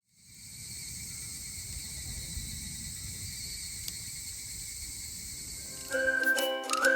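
Insects, crickets by their sound, chirring steadily in several high pitches over a low rumble. Background music with plucked ukulele-like notes starts about six seconds in.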